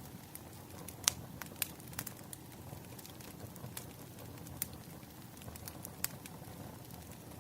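Wood fire crackling: irregular sharp pops and snaps over a steady low background, the loudest pop about a second in.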